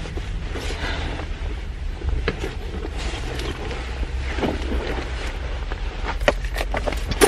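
Strong wind buffeting the microphone: a steady low rumble with scattered short clicks and knocks.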